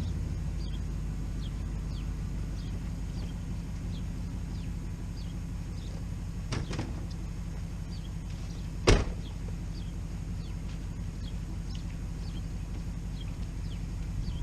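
Car engine idling steadily on a cold start, with a single door shutting about nine seconds in.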